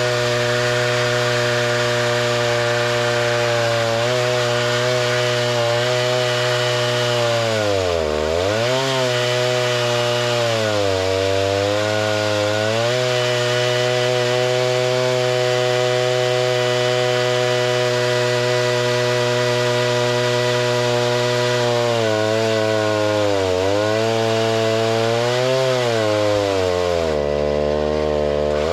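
Gasoline engine of a saw milling lumber, running at high speed and sagging in pitch several times as it labours through the cut, then recovering.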